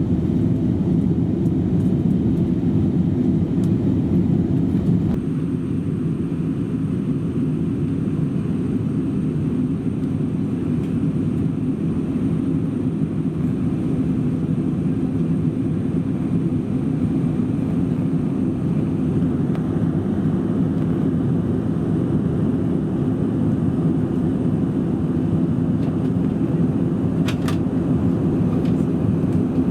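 Steady cabin noise of an Airbus A321 in its climb, the deep rumble of its jet engines and the rushing air heard from a seat at the very back of the cabin. The rumble eases slightly about five seconds in, and there is one short click near the end.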